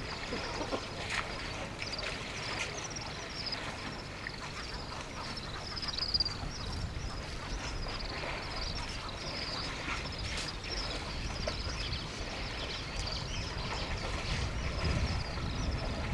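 Birds calling over and over in short, high, falling chirps, several a second, with a low wind rumble on the microphone growing near the end.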